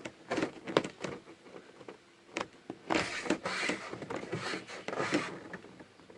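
Knocks and a scraping, rubbing noise as a screwless interior panel that is stuck in place is handled and pulled at. A few sharp clicks come first, then a longer scraping stretch with more knocks about three seconds in.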